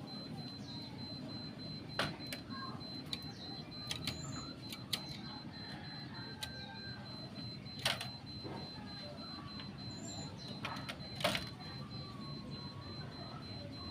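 Irregular sharp clicks and taps, the loudest about 2, 8 and 11 seconds in, with a few faint short high chirps from a caged decu (pied bushchat), over a steady low hum and a thin high whine.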